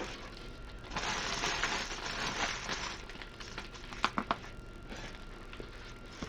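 Plastic packaging of a diamond painting kit crinkling and rustling as it is handled, followed by a few light clicks about four seconds in.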